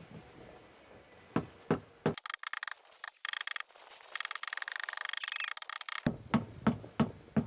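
Hammer blows during pump boat repair: a few single knocks, then a stretch of fast rattling clicks, then steady hammering at about three blows a second starting near the end.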